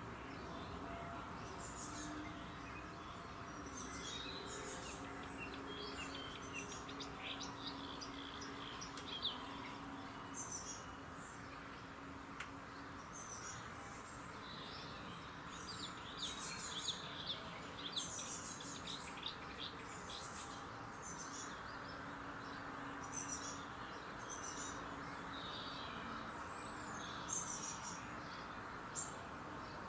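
Birds chirping and singing in a morning chorus: many short, rapid chirps and trills, several overlapping, denser from about halfway on, over a steady background hiss.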